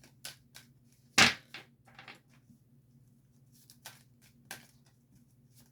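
Tarot cards being handled on a table: a few sharp taps and flicks of card stock, the loudest about a second in, with fainter ones scattered after, over a faint steady low hum.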